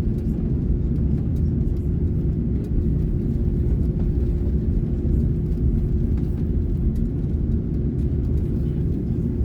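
Steady low rumble of an Airbus A330neo's Rolls-Royce Trent 7000 engines and airframe, heard inside the cabin, with a constant hum and a few faint ticks.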